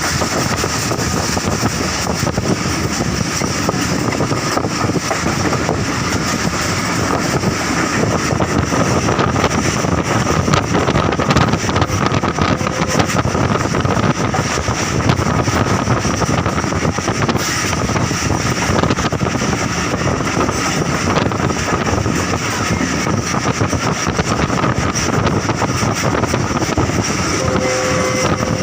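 Passenger train running, heard from inside the coach: a steady rumble and rush of the carriage moving along the track.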